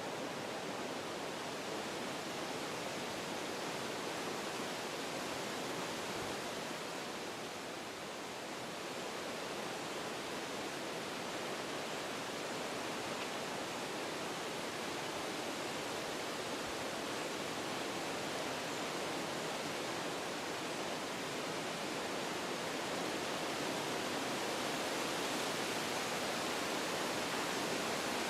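Wind blowing through forest trees: a steady rush that eases briefly about eight seconds in and builds a little near the end.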